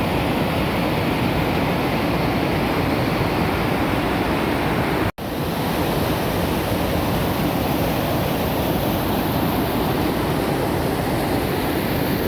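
Waterfall pouring as a steady, loud rushing of water, with a split-second dropout about five seconds in where the recording cuts.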